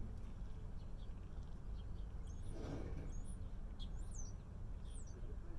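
A small songbird calling outdoors in a series of short, high chirps that sweep up and down, starting about two seconds in, over a low steady rumble.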